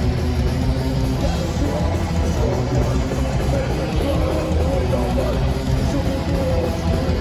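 Heavy metal band playing live at full volume, with distorted electric guitars over a heavy, dense low end.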